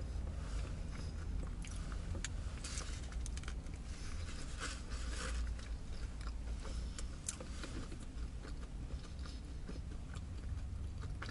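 A person chewing and biting into a burger close to the microphone, with scattered short crisp sounds, over a steady low hum in the car cabin.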